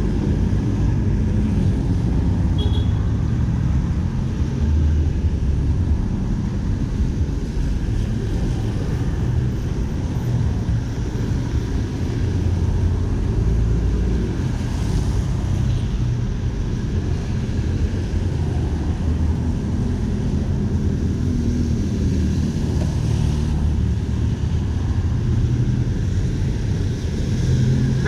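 Steady city street traffic: passing vehicles making a continuous low rumble.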